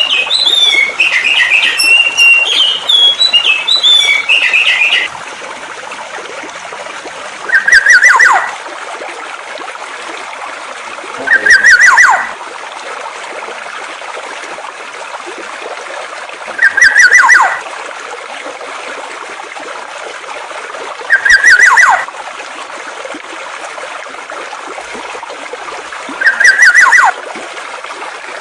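A songbird chirps rapidly for about five seconds, then a different bird takes over, giving five short calls about four to five seconds apart, each a quick burst that ends in a falling note. A steady rush of flowing water runs underneath throughout.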